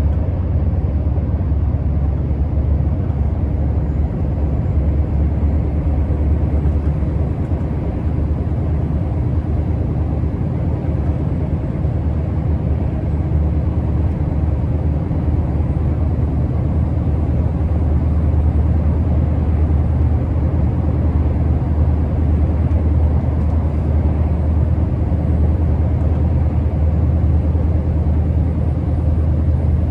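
Scania R650's 16-litre V8 diesel running steadily under way, a deep even drone that grows slightly louder a little past halfway.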